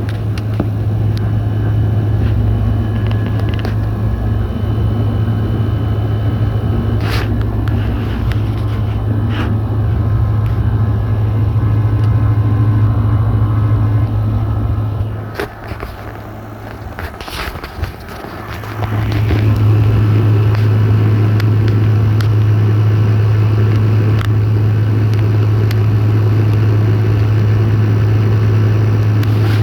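Midea and large General Electric window air conditioners running, with a steady low compressor hum and fan noise. About halfway through, the hum drops away for a few seconds and then comes back.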